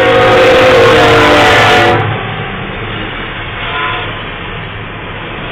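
A train passing close by: the locomotive's horn sounds over a loud rush of noise, its pitch sliding slightly down as it goes past. About two seconds in the rush and horn drop away, leaving the steady rumble of the train rolling by.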